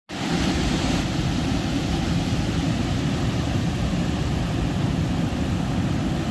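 Steady loud roar of a rainstorm, strong wind and heavy rain together, with a heavy low rumble.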